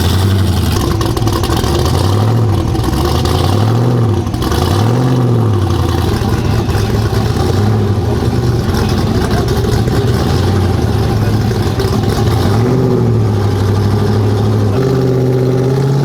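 A vehicle engine revving in short blips, its pitch rising and falling several times, then held at a higher steady pitch near the end.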